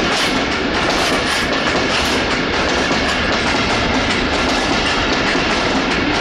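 Bangladesh Railway intercity passenger coaches passing close by at speed, their steel wheels running over the rails in a loud, steady rush.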